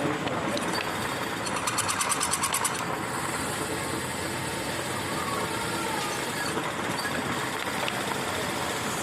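Milling machine running steadily, with a quick run of about a dozen ticks a second for just over a second, about a second and a half in.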